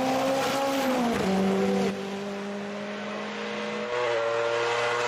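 Race car engine running hard; its note drops abruptly in pitch about a second in and shifts again near four seconds, then holds steady.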